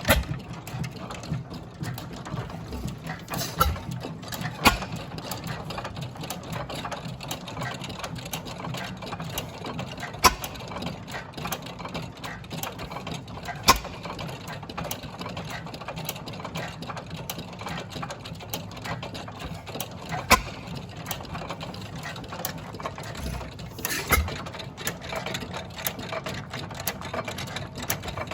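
Three IHC Famous hit-and-miss stationary gas engines running together: a steady mechanical clatter, broken by sharp firing pops every few seconds at irregular intervals as the engines fire and coast.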